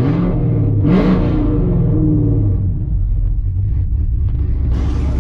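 2019 Camaro SS's V8 with headers and a catless X-pipe exhaust revving: the engine note climbs sharply about a second in, holds briefly, then falls away.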